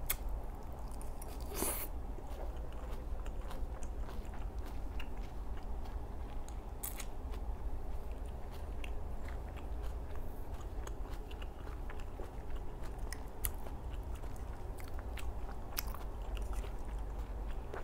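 Close-up chewing of a mouthful of salad greens, with frequent small wet lip-smacking clicks and bites.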